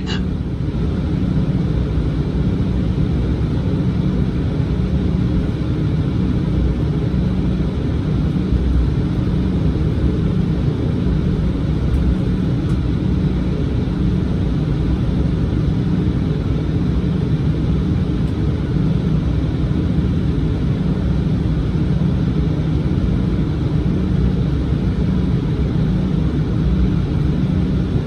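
Steady low cabin rumble of a KLM Cityhopper Embraer regional jet, the engines and airflow heard from inside the passenger cabin.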